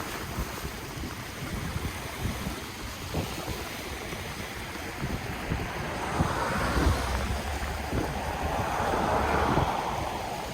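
Ocean waves washing ashore. A wave swells louder and breaks in the second half, then eases near the end, with wind buffeting the microphone throughout.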